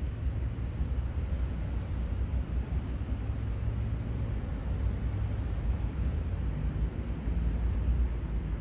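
Seaside outdoor ambience: a steady low rumble with no clear event, and faint high ticks now and then.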